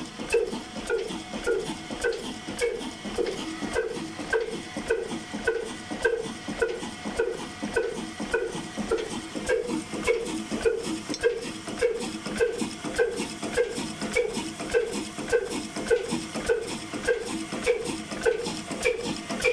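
Old stationary diesel engine running at a steady speed, with an even, regular chugging beat from its firing strokes.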